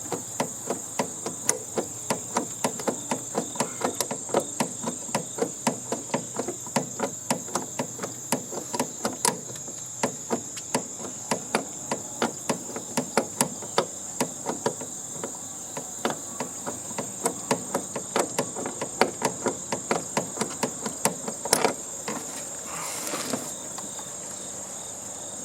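Hammer tapping in a quick, even run of sharp strikes, about three a second, stopping a few seconds before the end. A steady high insect trill runs underneath.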